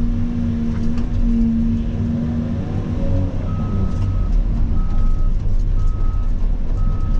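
Heavy diesel engine, the Cat 336 excavator's, running with a steady low rumble and a steady hum that stops about two and a half seconds in. From about three and a half seconds in, a backup alarm beeps about once a second.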